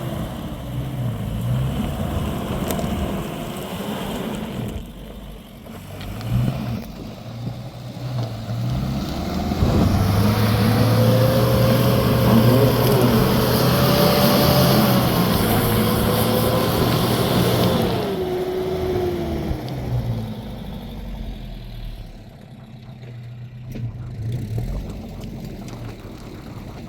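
A motor vehicle's engine running under load, revving up through the middle and winding down about eighteen seconds in, then running quieter.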